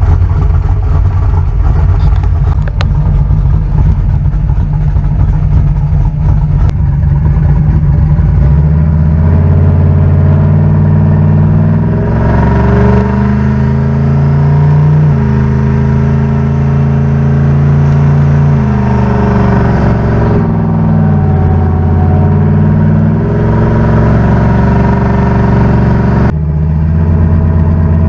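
Turbocharged small-block Chevy V8 in a 1974 street car, idling for about eight seconds and then driven off. Its note jumps between steady pitches several times as the car runs through the gears.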